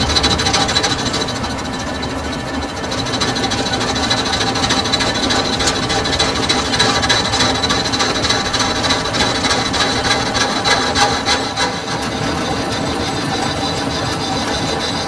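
Metal lathe turning a workpiece while the cutting tool scrapes across the metal: a steady, grating cutting sound with a thin high tone running through it and a few harsher scratchy patches midway.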